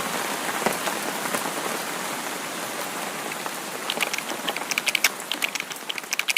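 Steady rain hiss, with a cluster of sharp, close taps like large drops hitting a hard surface over the last couple of seconds as the rain begins to fade.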